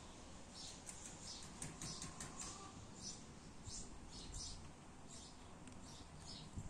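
Faint chirping of small birds: short, high notes, several a second, in loose clusters.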